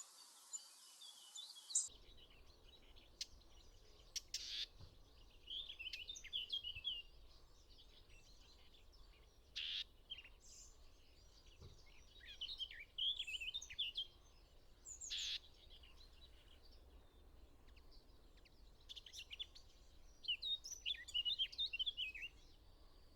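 Small songbirds singing in short bursts of rapid, high twittering notes, one every few seconds, with a few separate sharp single calls between the bursts.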